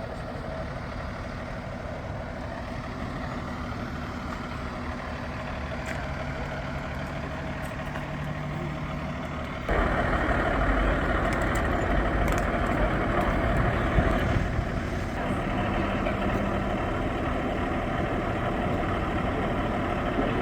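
Roadside traffic noise with vehicle engines idling and running. About ten seconds in, the sound abruptly gets louder and fuller and stays that way.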